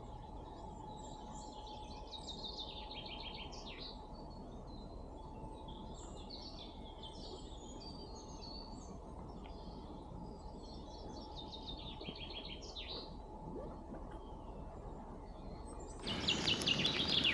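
A songbird singing the same short, falling phrase three or four times over a steady background of outdoor noise. About a second before the end, a louder rustling, clattering noise starts suddenly.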